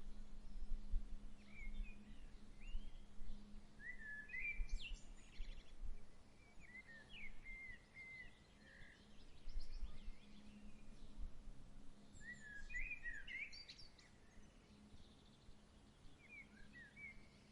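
Songbirds chirping in several short bouts of quick, twittering phrases, over the low, gusty rumble of a breeze and a faint steady hum.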